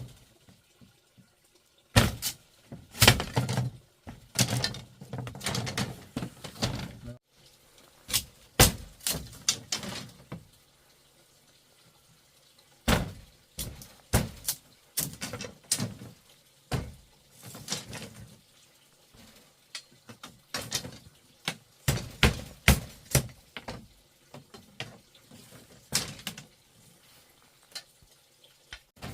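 Irregular knocks, thuds and clatters of hard objects being handled, coming in bunches with a short lull in the middle.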